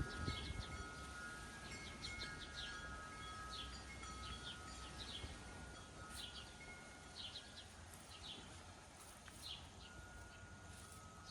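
Faint chimes ringing: several steady tones held together, with short high chirps about once a second.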